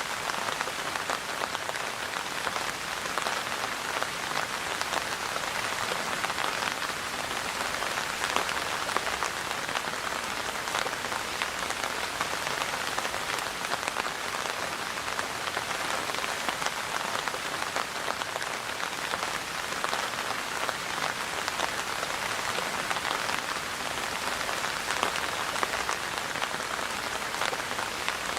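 Steady rain falling on a surface: an even hiss full of scattered drop patters.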